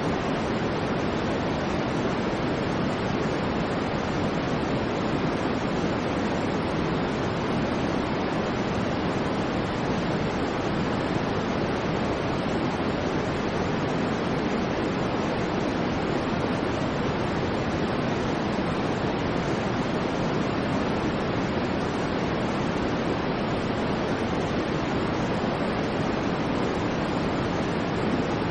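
Steady white noise for sleep, an even rushing hiss that never changes, heavier in the low-middle than in the treble.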